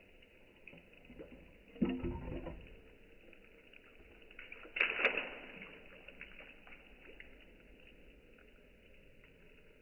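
Two splashes about three seconds apart: broken roof tile pieces dropped into a bucket full of rainwater, the first a deeper plunk, the second a brighter, louder splash.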